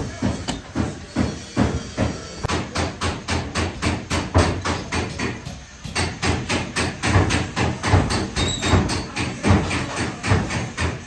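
Repeated hammer blows, about three a second in a steady rhythm, with a short pause about halfway through.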